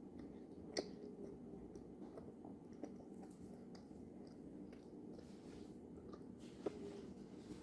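Quiet chewing of a soft gummy candy and marshmallow: soft wet mouth sounds and small clicks, with two sharper clicks about a second in and near the end, over a low steady hum.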